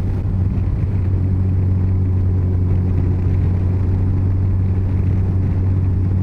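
Yamaha FJR1300 inline-four engine running steadily at a constant cruising speed. Its hum holds one pitch, over a steady rush of wind and road noise.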